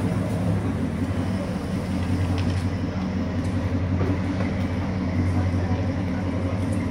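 Dodge Charger 'General Lee' engine idling with a steady, rough low rumble from its exhaust.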